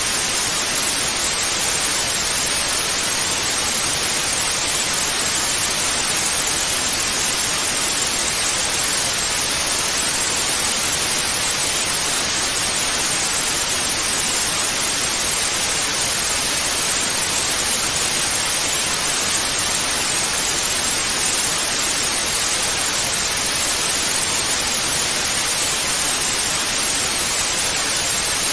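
Television static: a steady, even hiss of white noise, strongest in the upper frequencies and unchanging throughout.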